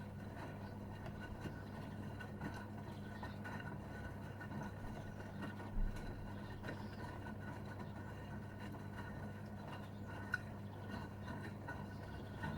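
Gorenje UseLogic 65165 front-loading washing machine running mid-cycle: a steady low hum with faint scattered clicks, a single low thump about six seconds in, and a sharp click near the end.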